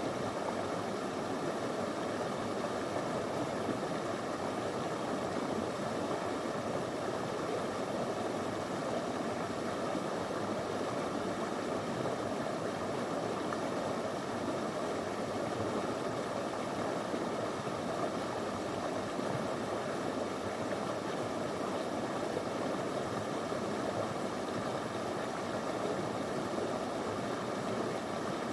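Small river flowing and babbling over stones: a steady, even rush of water with no breaks.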